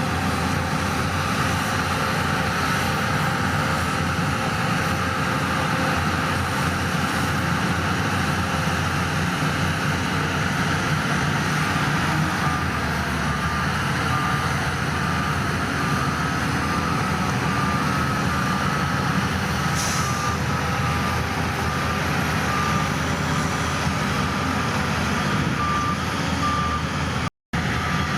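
Heavy diesel construction machinery running steadily, with a back-up alarm beeping at an even pace from about halfway through. The audio cuts out for an instant near the end.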